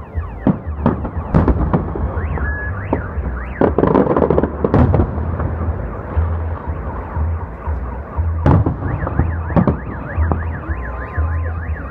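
Fireworks salute going off: a string of sharp bangs, with a dense crackling cluster about four seconds in and big bangs near the end. Car alarms wail up and down in a fast repeating sweep beneath them.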